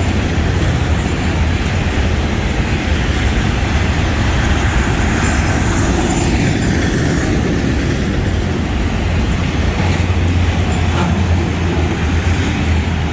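Freight train cars rolling past at close range: steady, loud noise of steel wheels running on the rails, with a strong low hum beneath.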